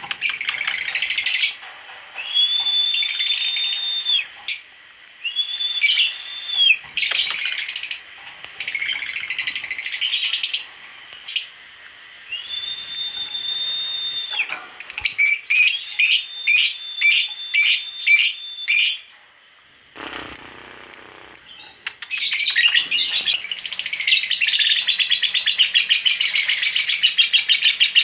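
Female lovebird calling in shrill chattering bursts, with a few held high notes and a run of rapid repeated notes midway, then breaking into a long unbroken chattering trill (the 'ngekek' song) for the last several seconds.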